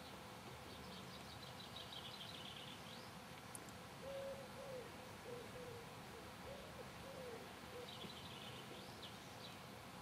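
Faint outdoor birdsong. A small bird gives a quick high trill twice, once early and once near the end. In the middle, a bird gives a run of about six low, hooting call notes.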